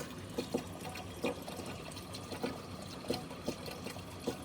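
Running water trickling and pouring through a marble run track, with small knocks and plops scattered throughout.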